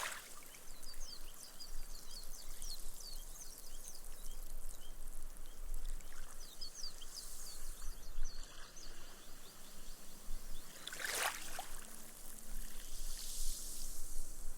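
Small, slow waves washing up onto sand and draining away, the foam fizzing with many faint crackling ticks as the water soaks into the beach. There is a sharp splash-like crack about 11 seconds in, and a fresh wash hisses in near the end.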